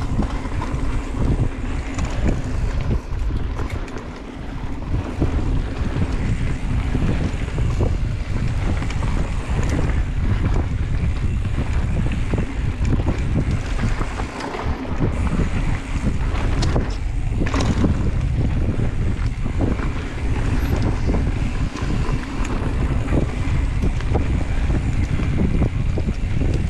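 Wind rushing over the camera microphone while a mountain bike is ridden along a dirt trail, with the bike's rumble and scattered knocks and rattles. The noise jumps up sharply right at the start and stays loud and steady.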